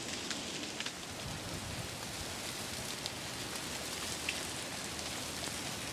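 Freezing rain falling steadily, pattering on ice-glazed trees and snow, with a few scattered sharp ticks.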